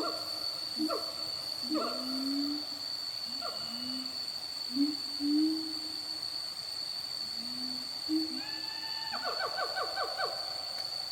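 Wild animal calls in a repeating series: short falling calls about once a second over lower sliding calls, then a quick run of about five falling calls a second near the end, with a steady high whine throughout.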